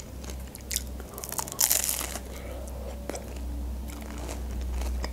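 Close-miked chewing of a crisp fried pastry pie: wet clicks and crunches, with a louder burst of crunching about a second and a half in.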